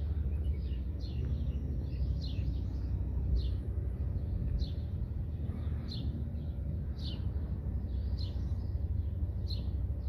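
Birds chirping in short high notes, about one or two a second, over a steady low rumble.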